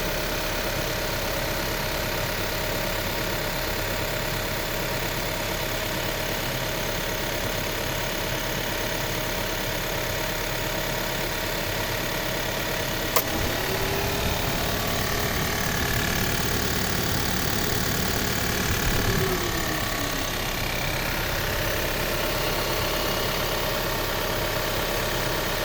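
Subaru Forester SK XT Edition's 1.8-litre turbocharged boxer four idling with an abnormal tapping noise in the engine bay, first taken for tappet noise but thought by the dealer mechanic to be a failing fuel pump. One sharp click comes about halfway through, and shortly after the engine's pitch rises slightly and falls back a few seconds later.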